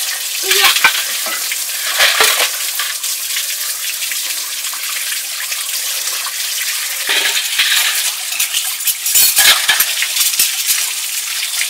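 Steady hiss of rain, broken by short bursts of splashing and scraping as a metal wok is scrubbed by hand in water.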